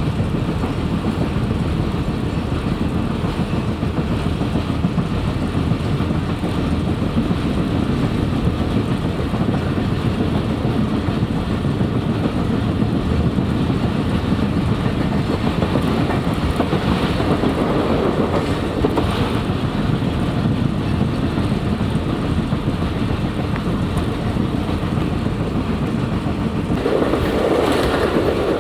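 Passenger train running along the track, heard from aboard a moving coach: a steady rumble and clatter of the wheels and carriage, growing louder for a moment near the end.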